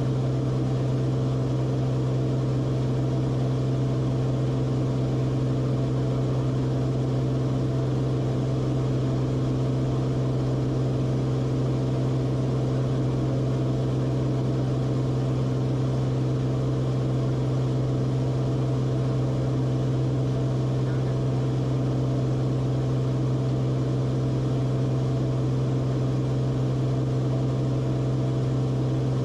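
Steady drone of the Cessna Corvalis TTX's turbocharged six-cylinder engine and propeller, heard from inside the cabin, holding one even pitch without change.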